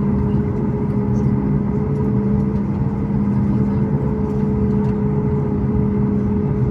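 Steady cabin drone of a Boeing 737 MAX 8 in flight, from its CFM LEAP-1B jet engines and the air rushing past, with a constant low hum and a higher tone that edges up slightly partway through.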